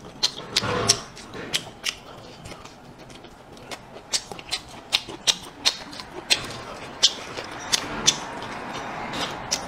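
Close-miked mouth eating sounds: chewing with sharp, wet lip smacks and clicks at an irregular pace of about two a second. A brief hummed "mm" comes about a second in.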